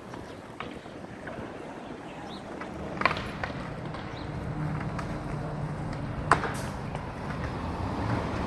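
City street traffic noise with a vehicle engine's low hum building and growing louder through the second half. Two sharp knocks or clicks stand out, about three and six seconds in.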